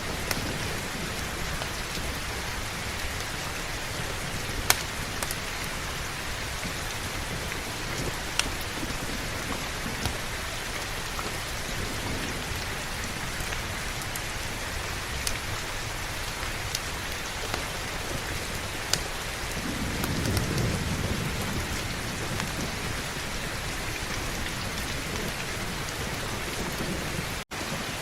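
Steady heavy rain hiss, broken by a few sharp clicks and a low rumble of thunder about twenty seconds in. The sound cuts out for an instant near the end.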